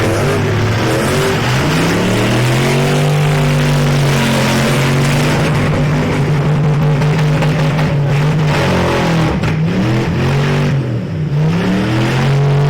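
Demolition derby pickup truck engines running loud and revving. Their pitch holds steady for several seconds, then falls and climbs again twice near the end.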